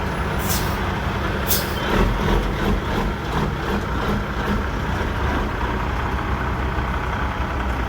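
Dump truck's Caterpillar 3406 diesel engine running steadily, with two short air hisses in the first couple of seconds.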